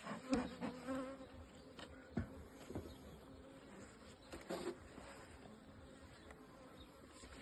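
Honeybees of a dark native European (AMM) colony buzzing around an opened hive, strongest in the first second, with a few knocks in between.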